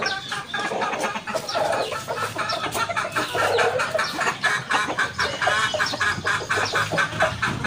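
Chickens clucking, with a quick run of short clucks through the middle.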